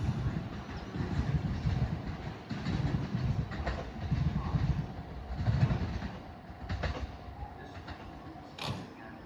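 Electric train running along the platform, its wheels clacking over rail joints in a rough rhythm of low thuds with a few sharp clicks.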